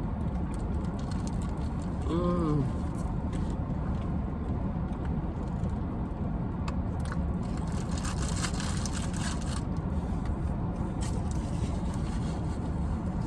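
Steady low rumble of a car, with a short voice-like hum about two seconds in.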